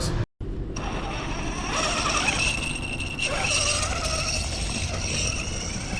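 Homemade RC monster truck's big brushless motor on a Hobbywing Max4 ESC and 12S battery, whining as it drives, pitch rising and falling with the throttle, over a steady rushing noise.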